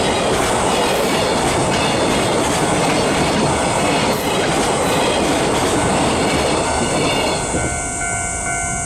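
Freight train hauled by an EH500 electric locomotive running past at speed, its wagons' wheels clattering steadily over the rails. Near the end a few steady high tones join the rail noise.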